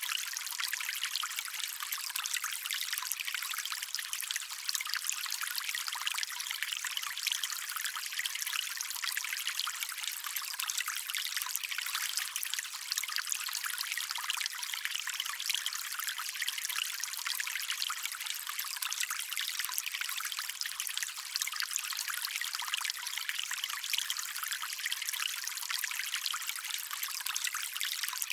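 Small stream trickling steadily over stones, an even, unchanging hiss of running water with the low end cut away.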